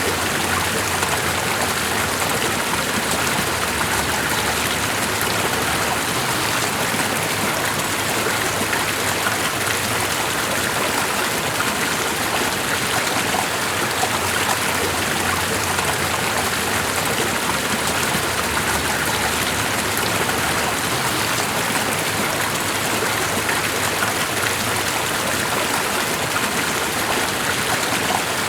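Steadily running stream water: an even, continuous rush with fine splashing detail and no change in level.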